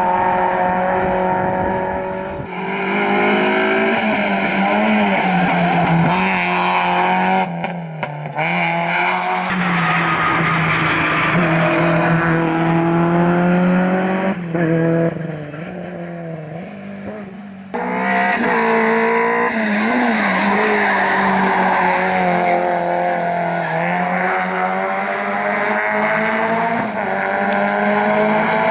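Rally car engines at full throttle, revving up through the gears with repeated rising pitch and sharp drops at each shift. The sound jumps between several passes, with a quieter stretch about halfway through. Tyre squeal is mixed in.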